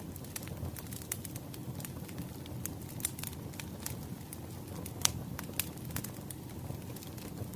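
Wood fire crackling: irregular sharp pops and snaps over a low, steady rumble, with the loudest snap about five seconds in.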